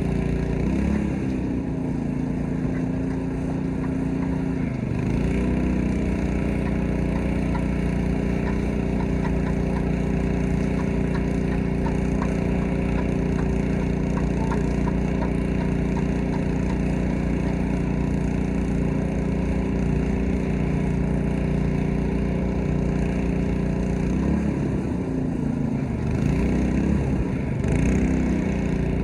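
Gas-engine pressure washer running steadily, its engine note dipping in pitch and recovering twice, as under changing load.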